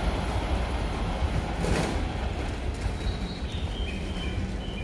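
E7/W7-series Shinkansen train running away on the through track at speed, its rumble slowly fading, with a brief sharp rush of noise about two seconds in. From about three seconds, short high chirps repeat at two alternating pitches.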